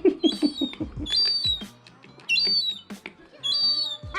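Gull chicks peeping: short, high, thin whistled calls that fall in pitch, coming in little clusters about once a second. A quick run of low rapid notes sounds in the first second.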